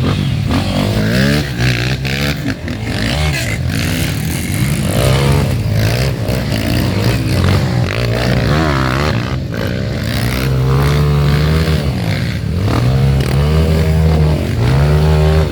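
Off-road dirt bike engine revving up and down repeatedly.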